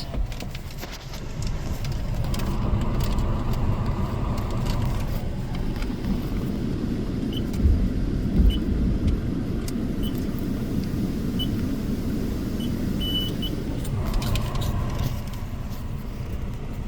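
Car engine idling, heard as a steady low rumble from inside the cabin, with a few short, faint high beeps in the middle.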